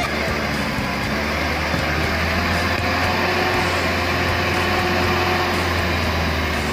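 Suzuki Jimny's engine running steadily with a low, even hum.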